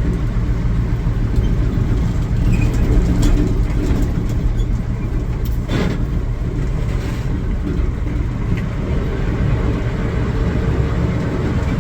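Non-turbo Caterpillar 3208 V8 diesel of a 1972 Ford L8000 dump truck running steadily as the truck drives, with one brief knock a little before the middle.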